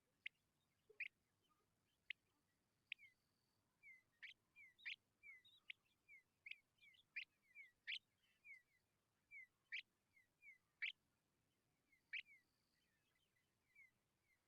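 Tawny pipit nestlings begging: a quiet run of short high chirps, each sliding down a little in pitch, several a second, with sharper, briefer high notes among them.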